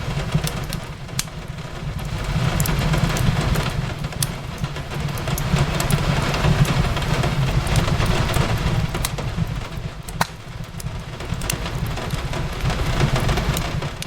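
Wood fire crackling with scattered sharp pops over steady rain on a window. A low rumble swells and fades every few seconds underneath.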